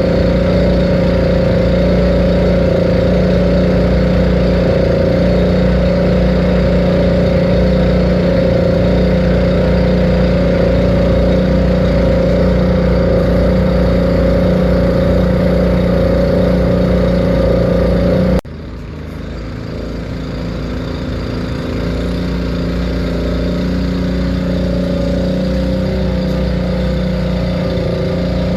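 An engine running steadily at an even pitch. About two-thirds of the way through it cuts off abruptly and comes back much quieter, then builds up again over a few seconds.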